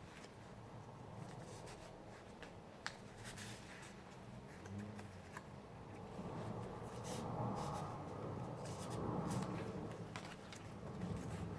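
Pages of handmade junk journals being turned and handled, paper rustling with scattered light clicks and taps. The rustling grows louder about halfway through.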